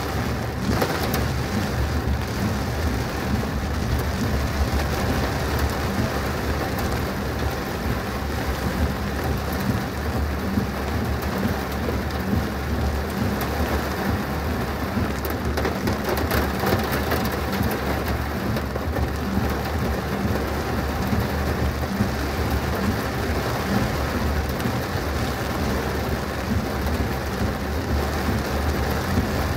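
Heavy rain pattering on a car, dense and steady with many fine drop impacts over a constant low rumble.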